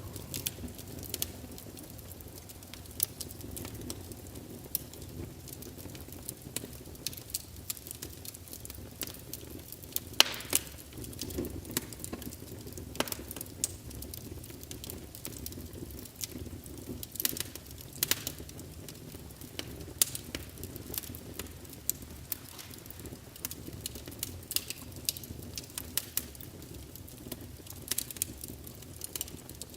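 Wood fire burning in a fireplace, crackling with irregular sharp pops over a low steady rumble of flame; the loudest pops come about ten and eighteen seconds in.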